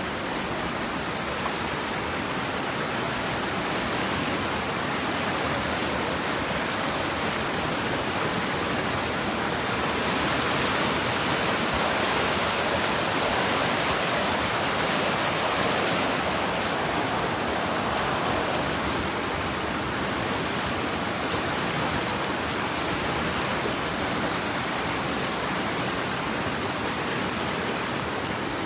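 Steady rush of running water, swelling slightly partway through.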